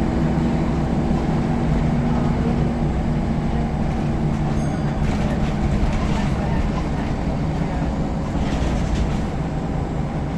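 Scania L94UB bus running on the move, its five-cylinder diesel engine giving a steady, loud drone over the low rumble of the ride.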